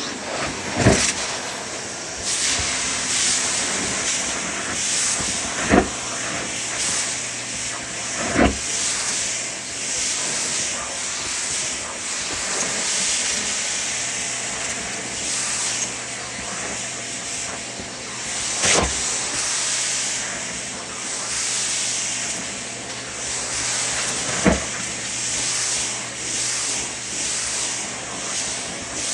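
Vacuum cleaner running: a steady airy hiss with a faint low hum that swells and fades, broken by about five sharp knocks.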